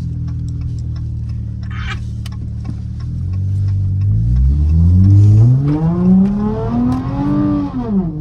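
Straight-piped SXT's engine and exhaust running steadily, then revving up with its pitch climbing for about three seconds before dropping off quickly near the end as the throttle is released. The engine is not yet fully warmed up.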